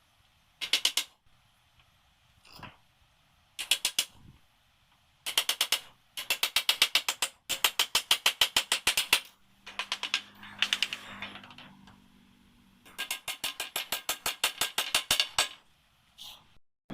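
Rapid runs of sharp mechanical clicks, about ten a second, coming in several bursts of up to two seconds each. A low steady hum sounds briefly in the middle.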